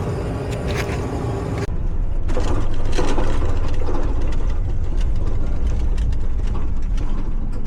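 Steady low rumble of a vehicle on the move, with scattered small clicks and rattles; the rumble grows heavier after an abrupt change about a second and a half in.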